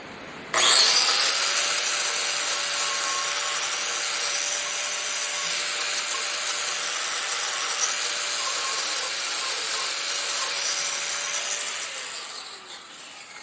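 Angle grinder starting up suddenly and cutting through silverware with a steady whine and a harsh grinding hiss, then spinning down with a falling whine near the end.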